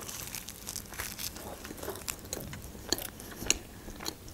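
Close-miked biting and chewing of a toasted shawarma: faint crunches and small clicks scattered through, with a few sharper clicks about three seconds in.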